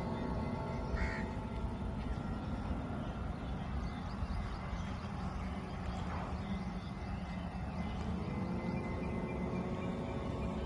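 A bird calling briefly over steady outdoor background noise.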